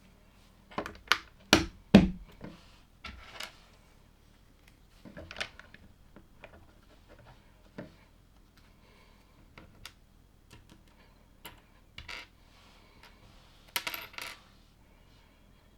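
Small plastic LEGO pieces clicking and clattering as they are handled during a build, with a quick run of sharp clicks about a second in and another cluster near the end.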